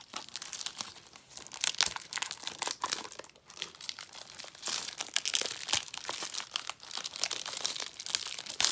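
Plastic shrink-wrap on a Blu-ray case crinkling and tearing as it is peeled off by hand, in dense irregular crackles.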